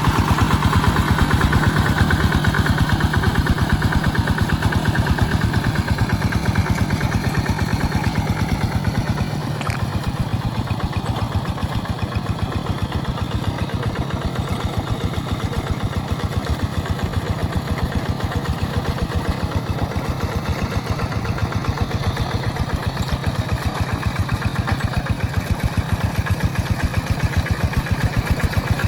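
Tractor engine running steadily in a muddy rice paddy, a fast even beat of firing pulses that eases a little about ten seconds in.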